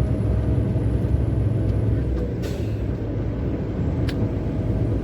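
Heavy truck's diesel engine pulling under load in seventh gear, a steady low drone heard from the cab, with a brief hiss of air about halfway through. The gearbox is developing a knock, faint in seventh gear.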